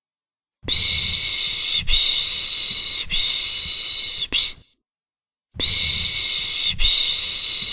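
A person shushing a baby ('pış pış') to soothe it to sleep. The long 'shh' sounds, each about a second, come in runs: three long ones closed by a short one, with about a second of silence between runs.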